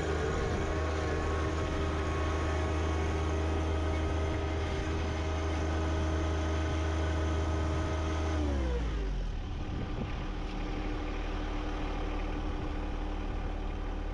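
John Deere 1025R compact tractor's three-cylinder diesel engine running steadily at a higher speed, then throttled down about eight seconds in, its note falling over about a second to a lower, steady idle.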